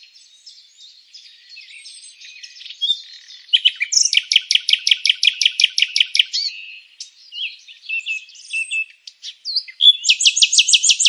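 Songbirds chirping and twittering, with two fast trills of about nine even notes a second: one about four seconds in lasting some two and a half seconds, and another near the end, with softer scattered chirps between.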